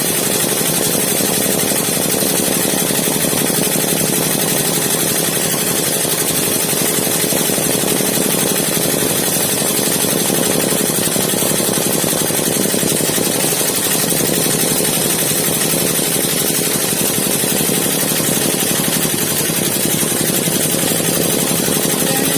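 HSW 12-needle high-speed embroidery machine running steadily as it stitches out a design.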